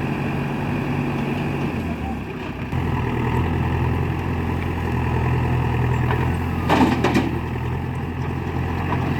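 Heavy diesel machinery engine running steadily, its note shifting about two seconds in, with a brief loud clatter a little before seven seconds.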